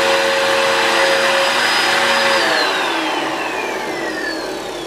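Budget upright vacuum cleaner running with a blockage in its airflow, then switched off about two and a half seconds in, its motor whine falling in pitch as it spins down.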